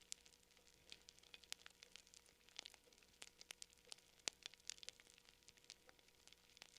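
Campfire crackling, faint: wood burning with irregular sharp snaps and pops, several a second, one louder pop about four seconds in.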